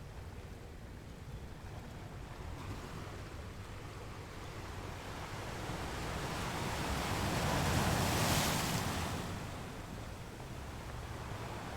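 Ocean surf: a wave builds, breaks with a swell of hissing noise about eight seconds in, and washes back.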